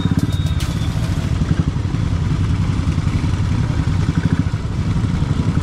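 Royal Enfield Bullet's single-cylinder engine running at low revs with a steady, fast pulse as the motorcycle rolls slowly over rutted dirt, other motorcycles running close by.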